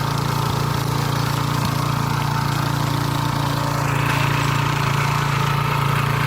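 Single-cylinder 170 petrol engine of a walk-behind harrow-tiller running steadily under load while tilling. A rougher hissing, grinding noise joins about four seconds in.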